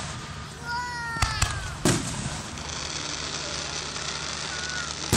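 Aerial fireworks shells bursting: a sharp crack about a second in, a louder boom just before two seconds with a rumbling tail, then a steady hiss, and another boom at the very end.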